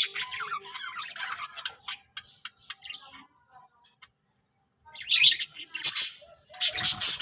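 Pet budgerigars chirping and chattering in bursts of quick high calls, with a lull in the middle and loud chatter again near the end.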